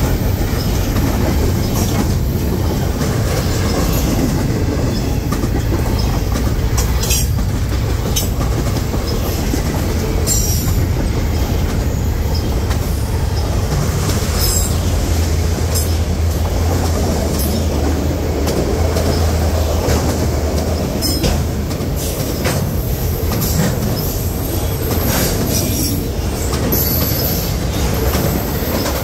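A train rolling past at close range: a steady, loud rumble of wheels on rail with brief high squeaks and clicks here and there. A low drone under it eases off about two-thirds of the way through.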